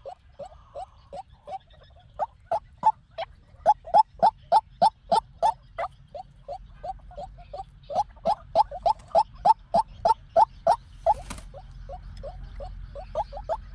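White-breasted waterhen calling: a long series of short, low notes repeated about three times a second, with a brief noisy crackle about eleven seconds in.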